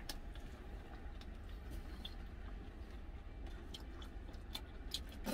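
A person chewing a mouthful of curry rice, with small mouth sounds and occasional light clicks of a spoon in a plastic food container, more clicks near the end. A steady low hum lies underneath.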